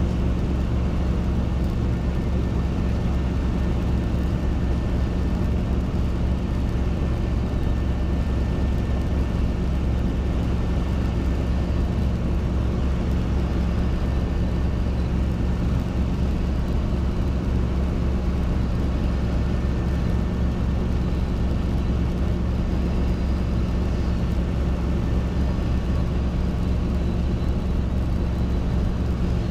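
Robinson R22 helicopter in flight: steady drone of the piston engine and rotor, with an even low hum.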